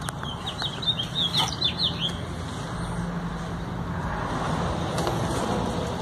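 A small bird's quick twittering song, a run of short high chirps lasting about two seconds, over a steady low hum like distant traffic.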